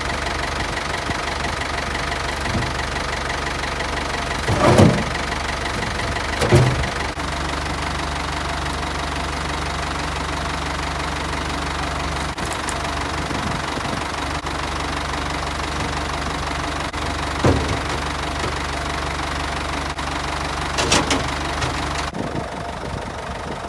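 Ford 5610 tractor's four-cylinder diesel engine running steadily while warming up after a cold start, with a few short, louder knocks over it.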